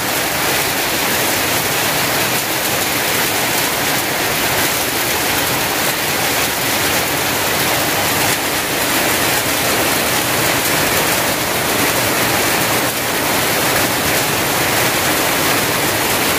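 Heavy downpour: a steady, dense rush of rain hitting corrugated roofs and plastic tarpaulins, with runoff pouring off the roof edges.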